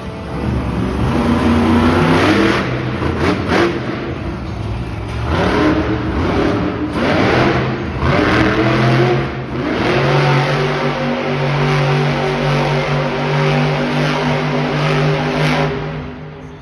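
Bigfoot monster truck's engine revving hard, its pitch climbing and falling again and again, then running at a steadier held speed for the last several seconds.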